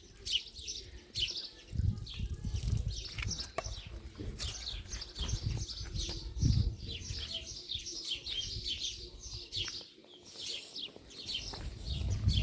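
Small birds chirping rapidly and continuously in short, quick notes, with a few stretches of low rumble about two seconds in and again just past the middle.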